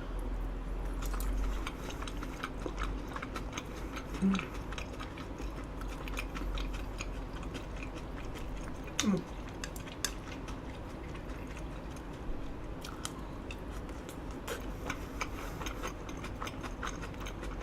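Close-miked chewing of grilled eel and rice: wet mouth clicks and small crackles throughout, with a short hum about four seconds in and another about nine seconds in.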